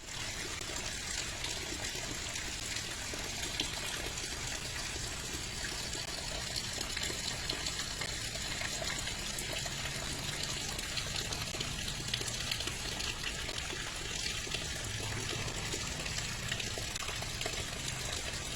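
Steady hiss of freezing rain coming down during an ice storm.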